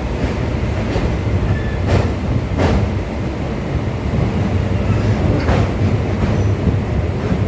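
Electric local train (EMU) running fast: a steady low rumble of wheels on rail, with a few sharp clacks as the wheels cross rail joints.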